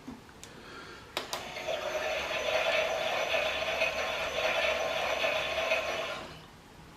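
Klein toy Miele washing machine's small battery motor turning the drum: a sharp click just over a second in, then a steady whirring with a light rattle for about five seconds before it winds down and stops, the pause of a wash tumble.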